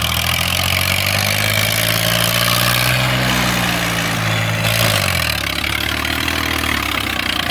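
Eicher 333 tractor's diesel engine running, its pitch rising slightly as it is revved and then dropping back to idle about five seconds in, with a steady hiss over it.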